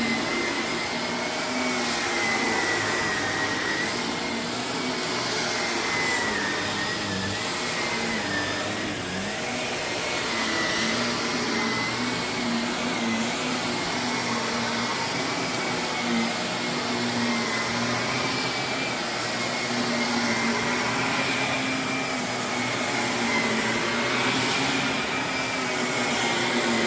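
Vacuum cleaner running steadily over carpet, its motor whine wavering slightly in pitch over the rush of suction.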